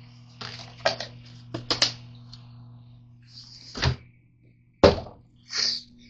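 Microwave oven humming steadily while it runs, under a string of clicks and knocks from kitchen handling, the loudest knock about five seconds in.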